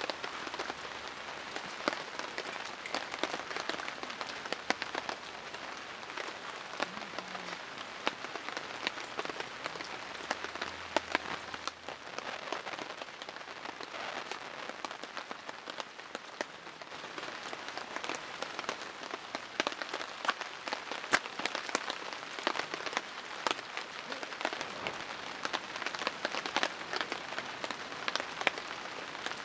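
Steady rain falling, with many irregular sharp taps of drops landing close by.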